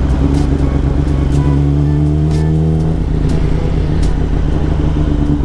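Kawasaki Ninja sport bike engine running at steady riding revs, heard from the rider's position along with wind and road rumble. A few short ticks are scattered through it.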